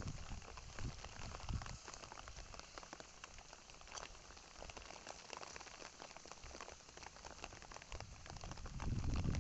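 Heavy rain falling steadily, a dense haze of individual drops striking a surface. A low rumble swells near the end.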